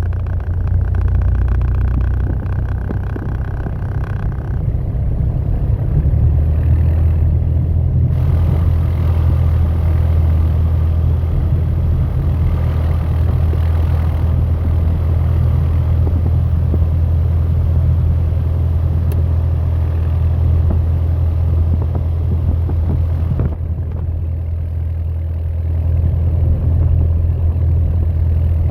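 Piper PA-28 Warrior's four-cylinder piston engine and propeller running steadily as a loud, low drone. It grows louder about six seconds in and eases briefly near the end.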